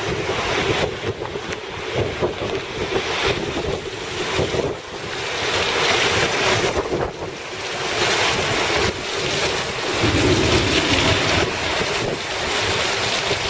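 Thunderstorm wind and rain rushing, with gusts buffeting the microphone, swelling and easing every second or two. The deepest, loudest surge comes about ten seconds in.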